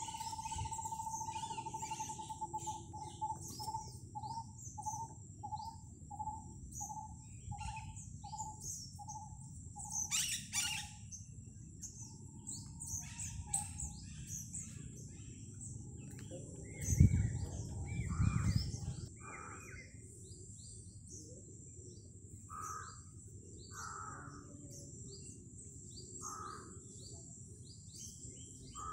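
Several birds chirping and calling, with a run of short, evenly spaced calls, about two a second, in the first third and spaced calls every second or so later, over a steady high-pitched tone and a low background hum. A brief low rumble about two-thirds of the way through is the loudest sound.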